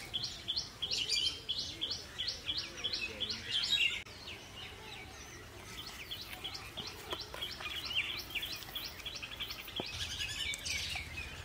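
A bird calling in long runs of short, high, repeated chirps, about three or four a second at first, then a faster, denser series in the second half.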